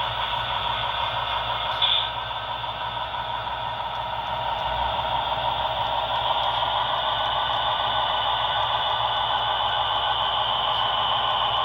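HO-scale model train running on the layout: a steady whirring hiss of the locomotive motor and wheels on track, growing a little louder from about four seconds in, with a brief sharp squeak just before two seconds.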